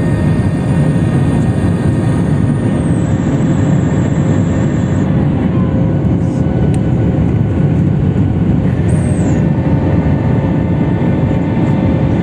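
Steady, loud engine and airflow noise of a Boeing 737 MAX 8 in takeoff or climb, heard from inside the passenger cabin. A faint high whine steps down in pitch about three seconds in and fades out about two seconds later.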